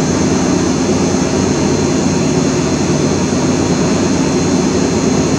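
Steady, unbroken droning noise with hiss and a few faint high whines, holding an even level throughout.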